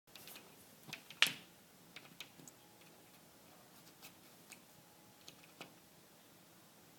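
Scattered light taps and clicks at irregular intervals, the loudest about a second in, over quiet room tone.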